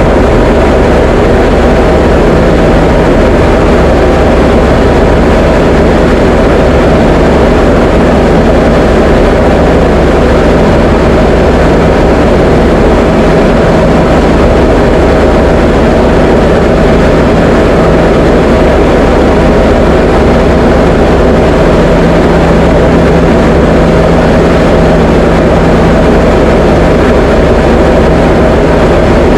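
Diamond DA20 light aircraft's piston engine and propeller running steadily, heard from inside the cockpit as a loud, even drone with a low hum.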